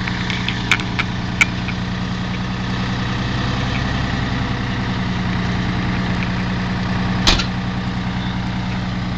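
Detroit diesel engine in a big GMC truck idling steadily. A few light clicks sound in the first second and a half, and a louder sharp knock comes about seven seconds in.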